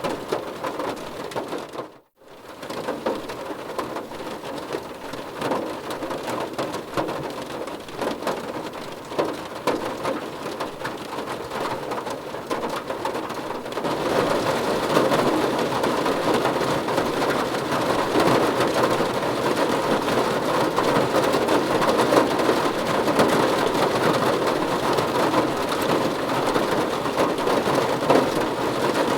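Rain falling on a car's roof and windows, heard from inside the car: a steady patter that cuts out for a moment about two seconds in, then turns heavier and louder about halfway through.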